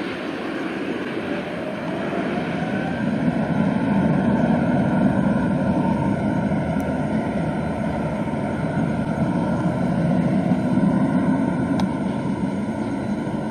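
Airbus A350-900's Rolls-Royce Trent XWB engines heard as a steady low jet rumble after the airliner has passed on its landing approach.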